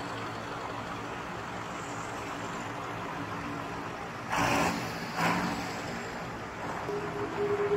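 Tractors on the road, their engines giving a steady drone, with two short loud bursts of noise about halfway through.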